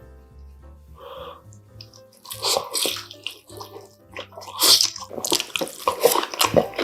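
Close-miked eating: wet slurping and chewing in irregular bursts that start about two seconds in, over faint background music.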